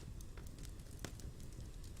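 Wood fire crackling softly in a fireplace: a low steady rumble of flames with scattered small pops and snaps.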